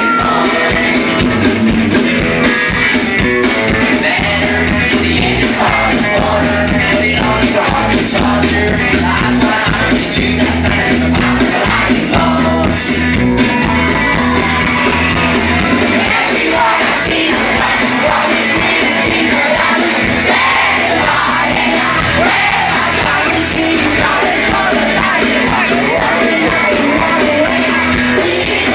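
Live rock band playing loud and steady, with a lead singer.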